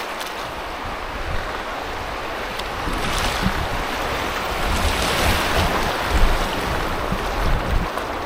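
Rushing river water with wind buffeting the microphone as a kayak runs down a drop in the river. Both grow louder about three seconds in.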